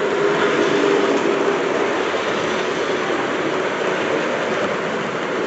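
A model train running on a layout's track, with steady rolling noise and a faint motor hum. It is loudest about a second in, as if passing close.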